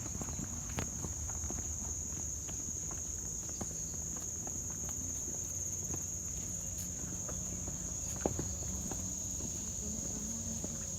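Steady high-pitched insect chorus, unbroken throughout, with a few faint scattered clicks.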